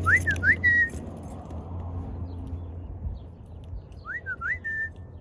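A person whistling the same short call twice, about four seconds apart, to call a lost pet bird. Each call is a quick up-down-up whistle ending on a briefly held note. A steady low rumble runs underneath.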